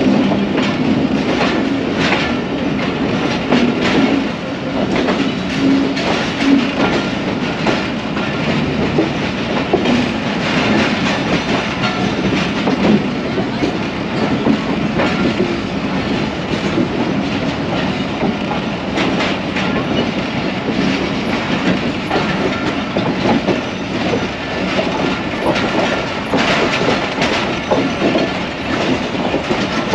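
Passenger train rolling along the track, its coach wheels clacking over rail joints, heard loud from an open coach window.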